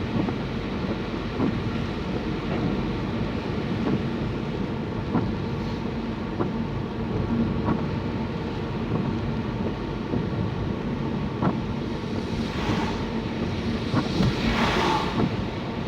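Steady noise inside a car driving in heavy rain: engine and tyres on a wet road. Two brief louder swishes come about two seconds apart near the end.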